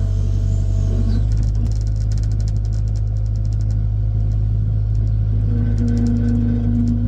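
Heavy equipment's diesel engine running steadily with a deep, even rumble. A higher hum joins in about five and a half seconds in.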